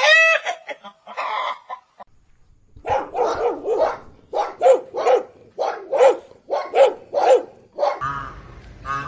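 A dog barking in a quick, even series, about two barks a second, starting about three seconds in. A short, loud animal call sounds at the very start.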